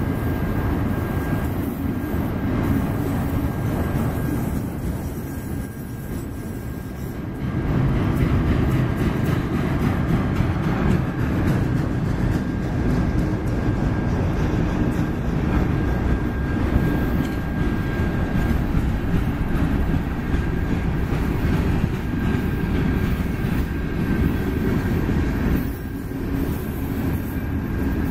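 Autorack and covered hopper cars of a mixed manifest freight train rolling past, with a steady rumble and rattle of steel wheels on rail. It gets louder about seven seconds in, and a faint steady high-pitched ring runs over it.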